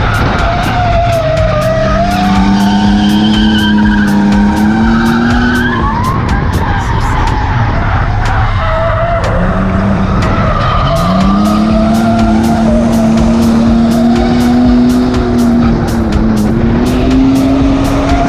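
Ford AU Falcon drift car engine held at high revs with its tyres squealing in a slide. The revs climb and hold, fall away about six seconds in, then climb and hold again from about eleven seconds.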